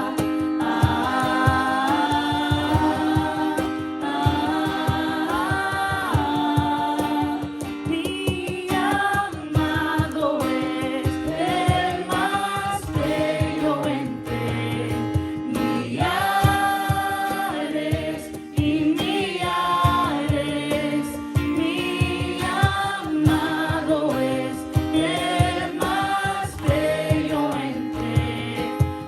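A group of voices singing a worship song together, over a fast, steady rhythmic accompaniment.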